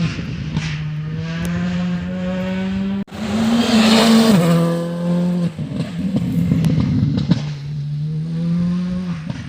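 Rally car engine under hard acceleration, its pitch climbing steadily. About three seconds in the sound cuts off abruptly and a louder car comes in with a burst of hiss. Its engine note then drops sharply and climbs again, twice more, as it lifts and accelerates.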